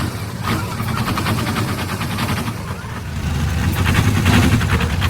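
An engine running, a steady low rumble with a rapid pulsing beat that grows louder about three and a half seconds in.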